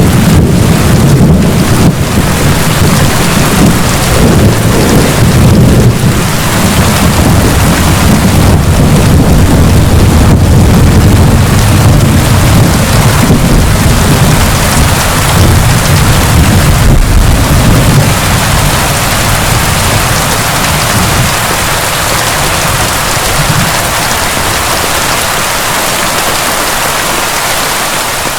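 Heavy rain pouring steadily, with a long low rumble of thunder rolling through the first half that fades away about two-thirds of the way in.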